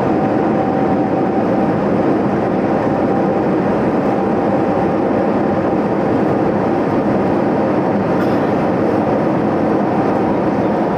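Steady cabin noise of an Airbus A321neo on the ground after landing: the engines' drone and airflow heard from inside the cabin, with faint steady tones over a continuous rush.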